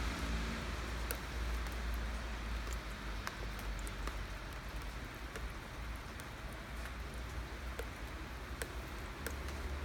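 Steady rain falling, with single drops tapping sharply now and then close by, over a low steady rumble.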